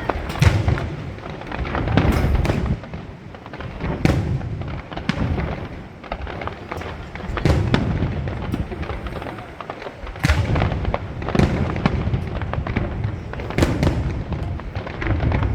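Fireworks display: aerial shells bursting with deep booms every second or few, with crackling between the bursts.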